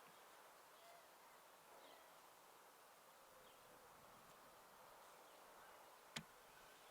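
Quiet garden ambience: a faint steady hum of insects with a few soft, distant bird chirps. One sharp click near the end.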